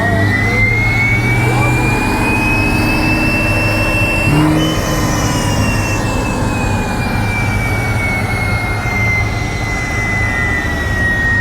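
Stock car running on a chassis dynamometer, the engine droning under a high whine that climbs for the first four or five seconds, then slowly falls and levels off.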